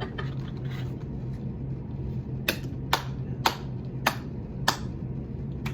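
Five sharp clicks about half a second apart, over a steady low hum.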